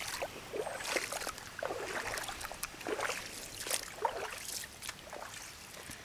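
Footsteps wading down a shallow, rocky creek: irregular splashes and crunches of stones underfoot, about one to two steps a second.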